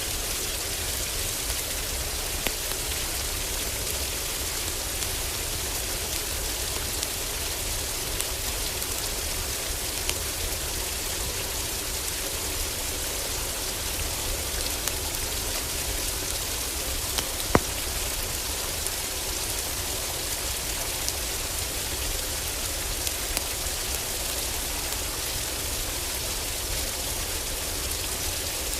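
Steady heavy rain on a roof, with a low, even rumble beneath it and scattered sharp pops from a crackling wood fire. One pop, about two-thirds of the way through, stands out louder than the rest.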